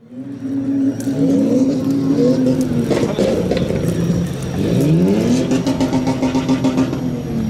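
RC scale crawler's electric motor and gearbox whining. The pitch rises twice as it speeds up and holds steady in between.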